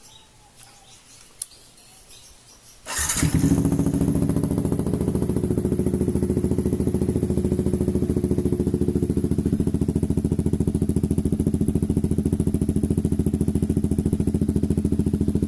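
Yamaha XSR155's single-cylinder engine cold-starting about three seconds in, then idling steadily with an even, fast pulse through an aftermarket exhaust: a custom 3-inch resonator and an SC Project canister.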